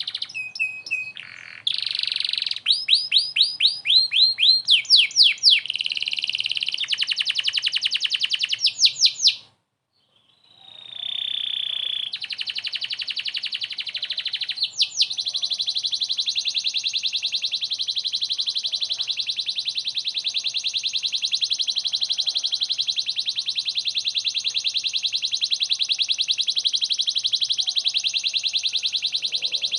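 Domestic canary singing: rapid trills and quickly repeated sweeping notes, a short break about ten seconds in, then one long unbroken rolling trill through the whole second half.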